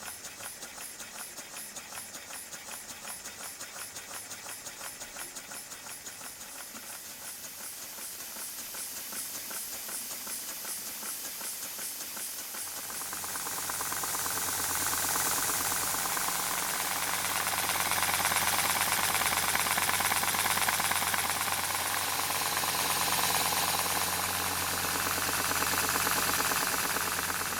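Model Stuart Turner twin-cylinder launch steam engine running on compressed air, its exhaust hissing in even beats, about three a second at first. About 13 seconds in it speeds up and gets louder, the beats running together into a fast steady chuffing with a low hum under it.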